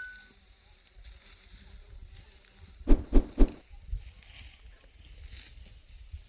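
Three quick, sharp strikes about a quarter second apart about halfway through, then a softer fourth one, over a faint outdoor hiss.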